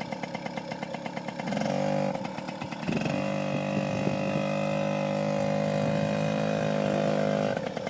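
Kawasaki KDX50 mini dirt bike's small two-stroke engine pulling away. It runs lightly at first, opens up about a second and a half in, eases off, then holds a steady higher note for about four and a half seconds before dropping back near the end.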